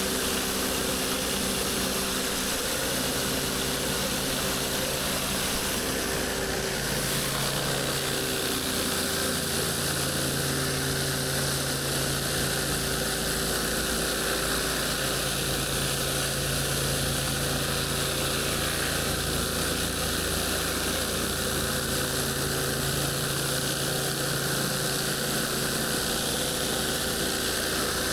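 Gas-engine pressure washer running steadily, with the hiss of high-pressure water spraying onto concrete.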